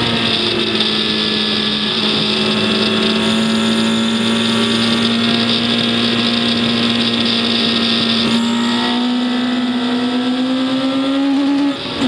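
Race vehicle's engine running hard and steadily, its pitch climbing slowly. Near the end it dips briefly and comes back at a lower pitch, as at an upshift.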